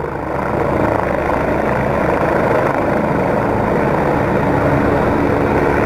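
Helicopter hovering and manoeuvring, its rotor and engine giving a steady drone with a faint low hum.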